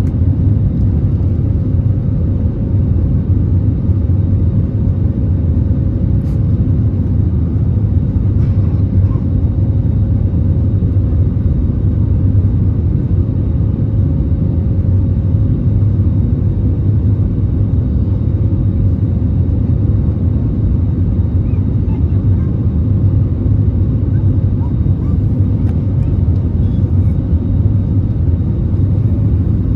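Steady low cabin rumble of an Airbus A320neo in flight shortly after takeoff: engine and airflow noise heard from a passenger seat, even and unbroken, with a faint steady hum on top.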